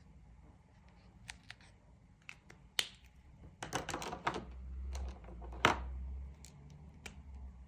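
Sharp clicks and taps of coloring tools being handled on a tabletop, with a quick clatter of several clicks about halfway through and one loud click near the end over a low handling rumble.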